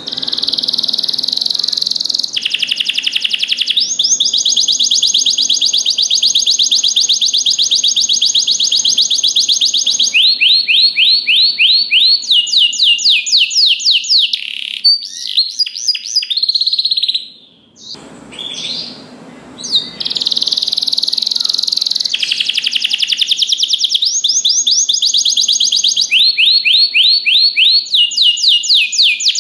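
Domestic canary singing loud, fast, rolling trills of rapidly repeated high notes, changing from one trill to the next. The song breaks off for a few seconds a little past halfway, then resumes.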